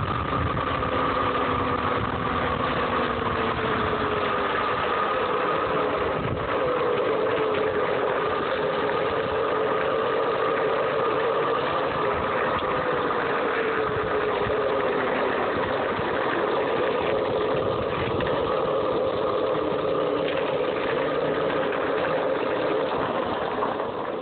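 Homemade DC electric dirt bike's motor whining steadily under way, its pitch drifting gently up and down with speed, over a steady rushing noise.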